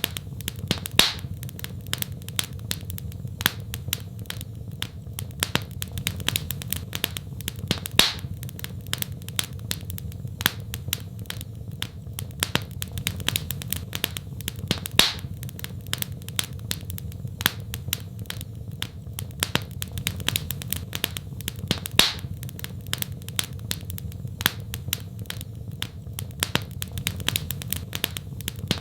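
Wood fire in a fireplace crackling: a dense run of small snaps, with a louder pop about every seven seconds, over a steady low rumble.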